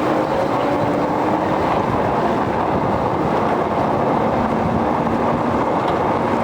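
Steady rushing noise of a vehicle on the move, with a faint hum that drops slightly in pitch about four seconds in.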